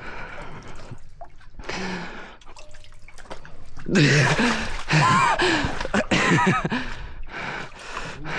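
A person's voice making wordless vocal sounds, loudest from about halfway in, after a quieter stretch with a few faint clicks.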